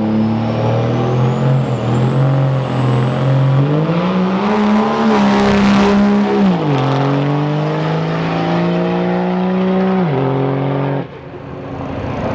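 Turbo-diesel pickup under full throttle on a drag run: the engine pitch climbs, drops at a gear shift about two-thirds of the way in, pulls again, then cuts off sharply near the end. A high turbo whistle rises over it.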